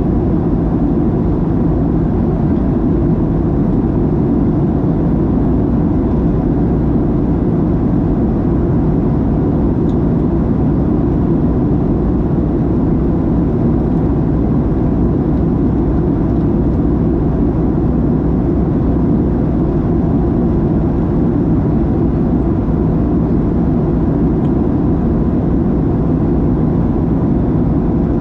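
Steady cabin roar of a Boeing 737-700 airliner in flight, its CFM56-7B turbofans and the rushing air heard from inside the cabin at a window seat, with a faint steady whine above the roar.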